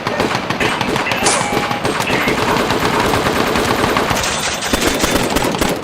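Sustained automatic gunfire from several weapons, rapid overlapping bursts of shots going on without a break.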